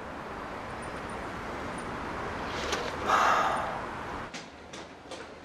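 Steady outdoor traffic noise with a vehicle passing, loudest about three seconds in, after which the background drops to a quieter room tone with a few light clicks.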